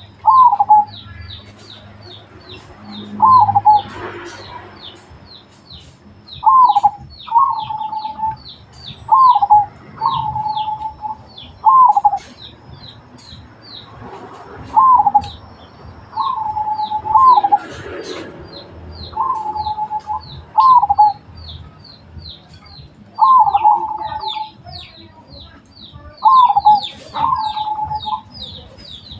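Zebra dove (perkutut) cooing: loud coo phrases, each a quick falling note running into a held tone, repeated about every two seconds. A steady run of faint, high, rapid chirps from another small bird goes on behind.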